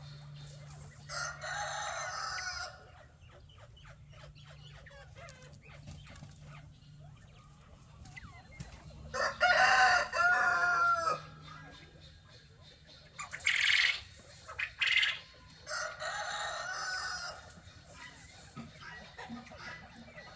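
Chickens calling, with a rooster crowing loudly about halfway through in a call that rises and falls in pitch. Other calls come from the flock near the start and in the last third.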